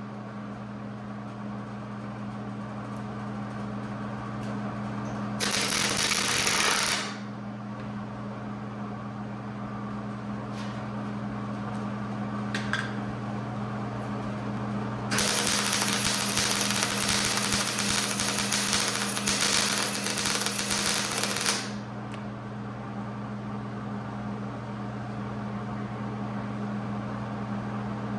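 Wire wheel on an angle grinder scrubbing rust and loose scale off a steel car frame, in a short burst about five seconds in and a longer burst of about six seconds past the middle. A steady low hum runs underneath throughout.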